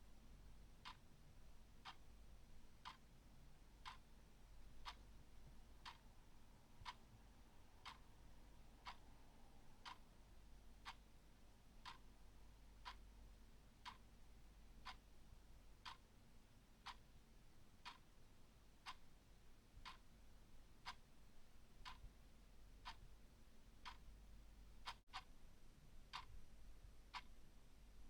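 Clock ticking steadily and softly, about one tick a second, over a faint low hum.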